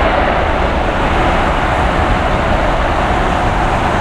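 Jet engines of a heavy airliner: a loud, steady rush of noise with a low rumble underneath.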